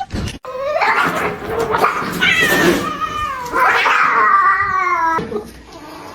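A cat yowling: three long, wavering cries that rise and fall in pitch, fading to softer calls near the end.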